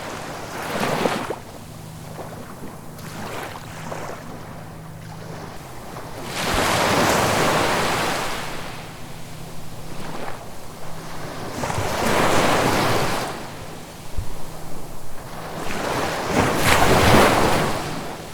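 Ocean waves breaking in repeated surges, each swelling to a loud rush and washing back down; the biggest come about six, twelve and seventeen seconds in.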